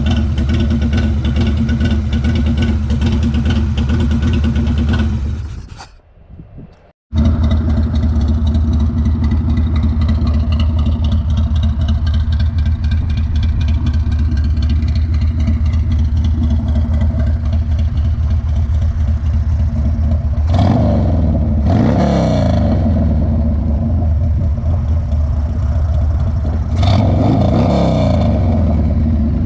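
Harley-Davidson Sportster 1200S's V-twin engine idling through a Cobra El Diablo 2-into-1 exhaust, revved up and back down twice in the second half. The sound fades away around five seconds in and drops out for about a second before returning abruptly at full level.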